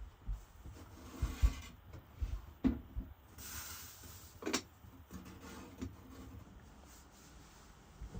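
Low thumps and knocks of objects being handled, with a short hiss about three and a half seconds in and a sharp click soon after.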